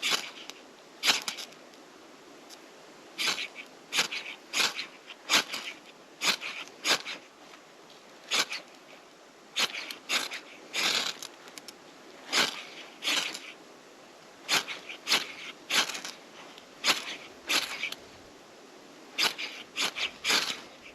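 A run of short, sharp scraping strokes at an uneven pace, often one or two a second, with short pauses between runs.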